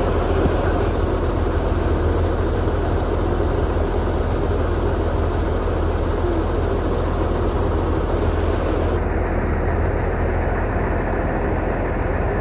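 Truck engine running steadily at idle, a low, even drone under a wide hiss; the hiss loses its top end about nine seconds in.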